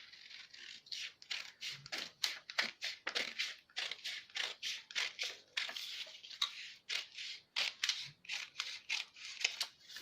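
Scissors snipping through a paper pattern with quick, crisp cuts, about three a second.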